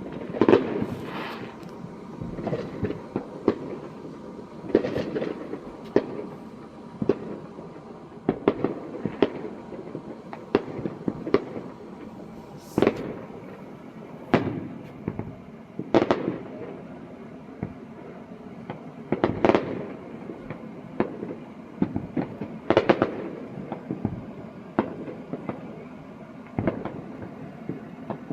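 Fireworks going off: a dense, irregular string of sharp bangs and pops, with louder, echoing booms every few seconds.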